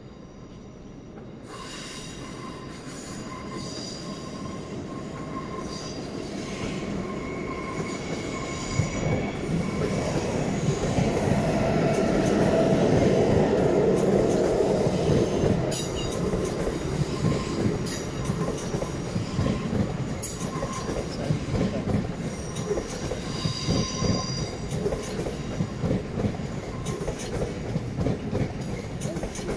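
A double-deck electric passenger train rolling slowly through a station's tracks and points, its wheels squealing in high tones. It grows louder over the first dozen seconds as it comes close, then clicks and knocks rhythmically over the rail joints and switches.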